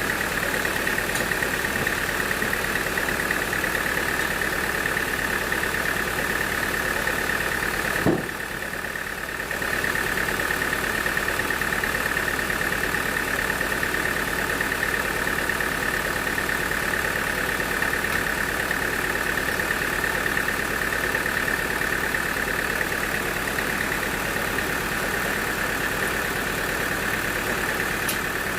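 Portable band sawmill running steadily, its engine droning under a high steady whine. There is a sharp knock about eight seconds in, followed by a brief drop in level.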